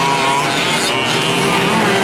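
Several 1/5-scale gas RC trucks' small two-stroke engines running together, each revving up and down on its own as they race.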